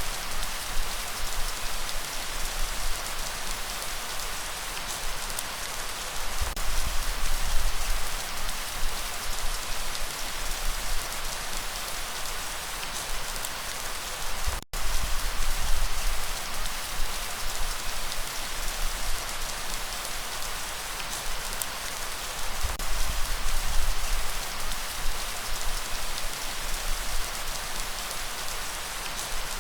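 Steady rain falling on a surface, a continuous patter of drops, with the sound cutting out for an instant about halfway through.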